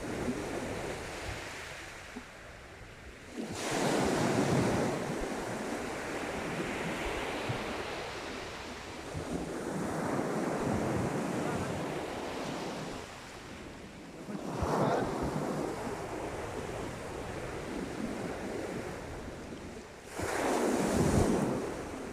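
Sea waves breaking on the beach, a surge of surf about every five to six seconds that washes back between them, with wind buffeting the microphone.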